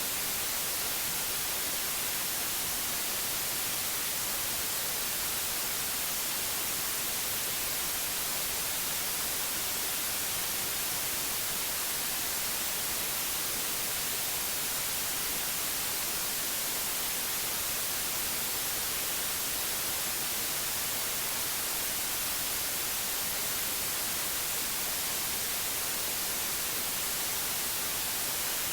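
Steady white noise: an even, unchanging hiss, brightest in the high range, with no hum or pattern in it.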